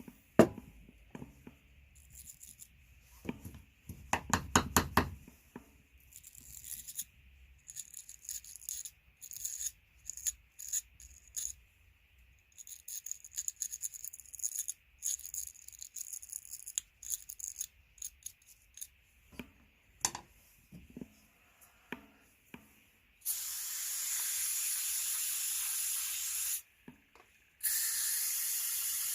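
Scratchy scrubbing strokes of a small brush on a car's idle air control valve, with a short burst of rapid clicking about four seconds in. Near the end, an aerosol can sprays cleaner in two long hisses.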